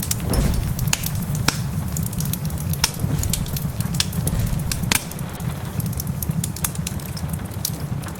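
Wood fire crackling, with sharp pops scattered at irregular moments over a steady low rumble.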